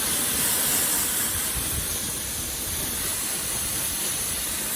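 A pressure-washer jet spraying hard and steadily against a rider's motorcycle jacket, a continuous loud hiss.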